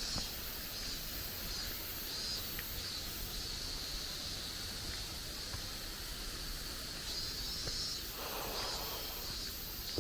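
Forest ambience: insects buzzing in a high, pulsing hiss, about two pulses a second, over a low rumble of wind on the microphone, with a brief rustle about eight seconds in.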